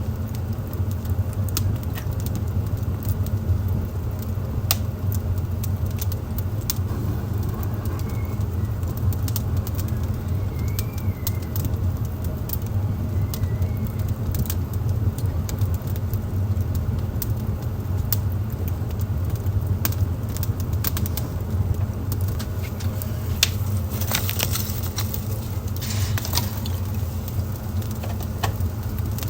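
Wood fire burning in a fireplace: irregular crackles and sharp pops over a steady low rumble, with a denser run of loud pops near the end.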